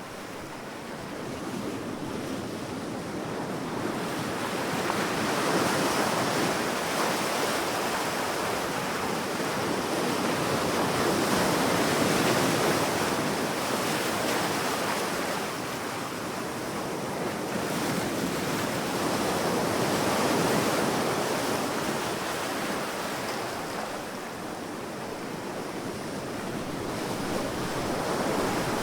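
Sea waves breaking and washing up on a beach, swelling and fading in slow surges every six to eight seconds.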